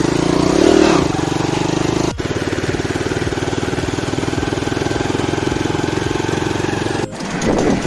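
Small engine of a beach quad bike running steadily with an even firing rhythm, broken off abruptly twice.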